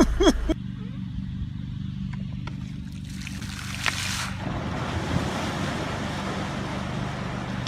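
Wind and water noise over a steady low motor hum, with a short hissing rush about three seconds in, after which the wash of noise grows and stays.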